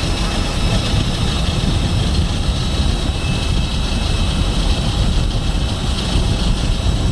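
Towing tractor running during a test drive: a steady, continuous low rumble with a thin, steady high-pitched whine over it.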